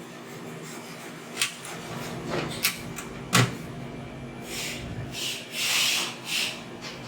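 A few sharp clicks and knocks, then several short rushing bursts of noise, the loudest a little before the end.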